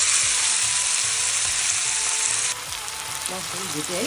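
Mustard greens frying in hot oil in a pan: a steady, loud sizzle that drops abruptly to a quieter sizzle about two and a half seconds in.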